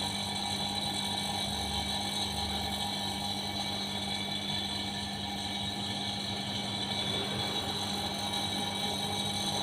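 Air-conditioning service station's vacuum pump running with a steady hum at a constant pitch, evacuating the car's A/C system.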